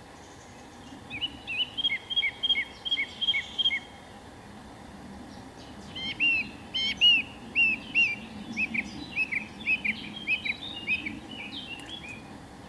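A bird calling in two runs of quick, repeated chirps, the first starting about a second in and the second about six seconds in, over steady low background noise.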